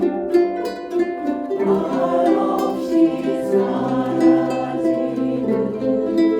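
Ukulele ensemble playing a song together, strummed chords under plucked melody notes.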